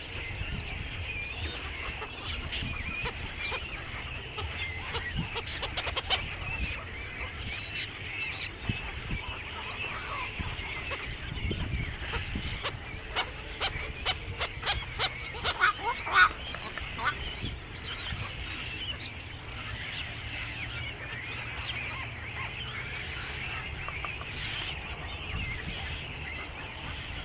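Many birds chattering and calling at once in a dense, continual chorus of high chirps, with a run of louder, sharper calls and clicks in the middle and a low rumble underneath.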